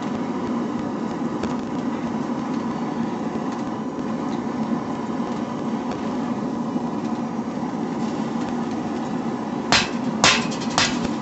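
Forge running with a steady rushing hum. Near the end, three ringing hammer blows on steel about half a second apart, as the old file is forged.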